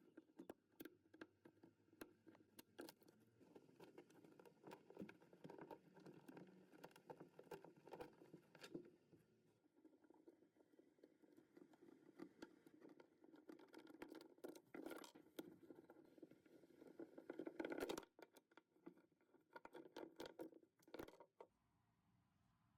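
Faint scattered clicks, taps and scraping of handwork, with a few louder knocks in the second half, stopping suddenly about 21 seconds in.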